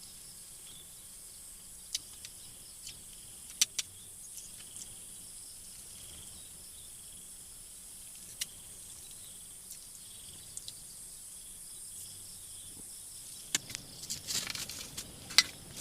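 Night-time outdoor ambience: a steady high insect chirring, with a few sharp ticks scattered through and a short rustle near the end.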